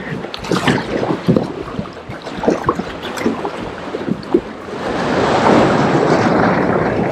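Kayak paddle strokes splashing and water slapping against the kayak in short, irregular bursts. From about five seconds in, a louder, steady rush of sea water and wind noise on the microphone.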